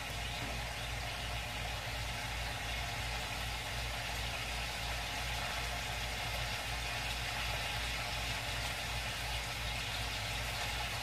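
Kielbasa frying in a pot on the stove, a steady sizzling hiss over a low, even hum.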